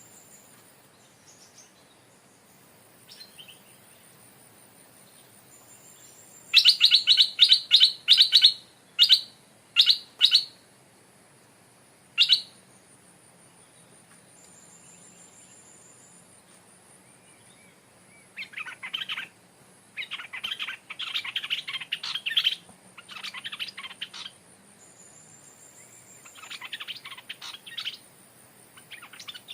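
Stripe-throated bulbul singing: a loud burst of rapid repeated notes, a few single notes after it, then longer chattering phrases later on. A faint high whistle comes now and then over a steady high insect buzz.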